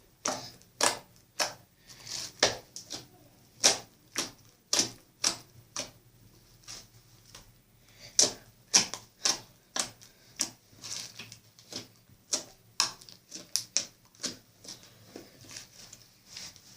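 Slime being squished and stretched by hand, giving many irregular sharp clicks and pops, several a second.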